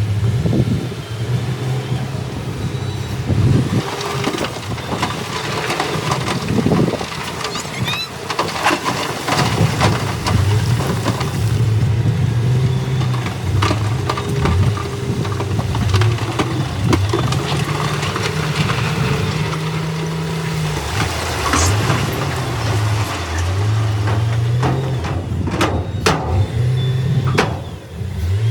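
Heavy earthmoving machine's diesel engine running and repeatedly revving up and settling back under load, with scattered sharp knocks and clanks.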